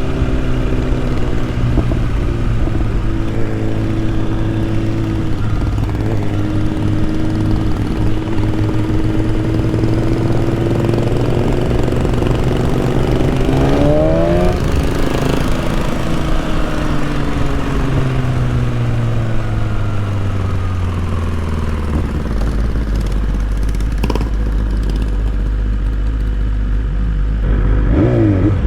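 BMW S1000RR inline-four engine while riding: holding a steady pitch, revving up sharply about fourteen seconds in, then winding down as the bike slows. It settles to a low steady note, with a quick throttle blip near the end.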